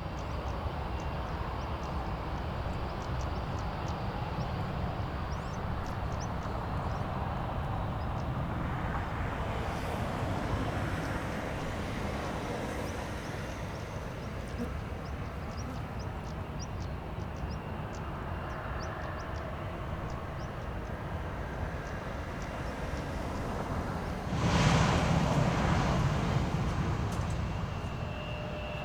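Jet aircraft engines running, heard as a steady distant rumble, swelling louder for a couple of seconds near the end.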